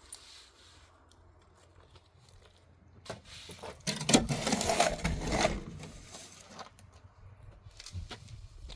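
A short burst of scraping and rustling about four seconds in, lasting under two seconds, with a few faint knocks and clicks after it.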